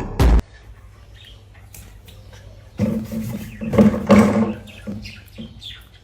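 A young dog vocalizing in a cluster of short pitched calls, starting about three seconds in and fading out over the next second and a half. Loud backing music cuts off just before.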